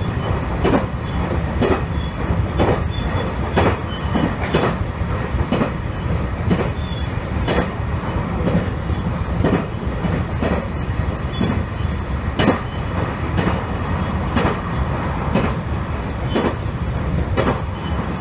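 Electric local train running at steady speed, heard from inside the car: a continuous low rumble with the wheels knocking over rail joints about once a second.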